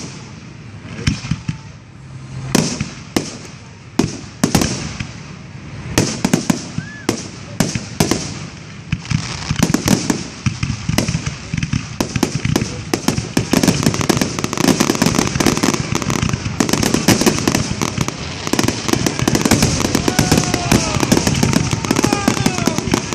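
Fireworks display: aerial shells going off in separate bangs about once a second, then from about ten seconds in a dense, continuous barrage of bangs and crackle.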